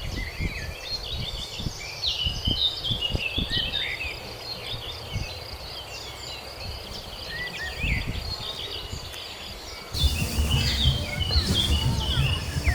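Wild birds chirping and calling over a steady high insect drone, with a low rumble underneath that gets louder for the last few seconds.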